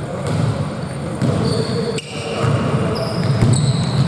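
Basketball game on an indoor court: sneakers squeak sharply several times on the floor and the ball bounces, over a low murmur of voices.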